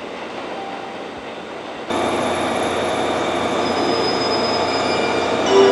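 Electric train sounds at a station platform: a fainter steady running noise, then, after a sudden jump about two seconds in, a louder steady rush with thin high whining tones over it.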